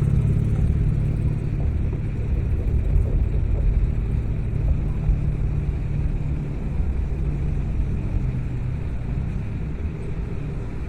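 Car driving: steady low engine and road rumble, no sudden events.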